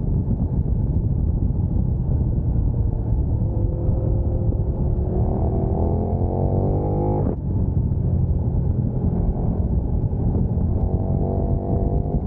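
Sport motorcycle engine accelerating hard, its pitch climbing for a few seconds, then dropping sharply at an upshift about seven seconds in and climbing again near the end. A heavy low rumble of wind runs underneath.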